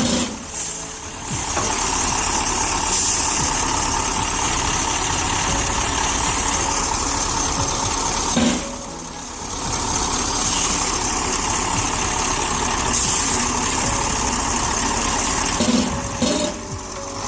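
Heavy truck engine running steadily, its level dipping briefly three times: about a second in, around nine seconds, and near the end.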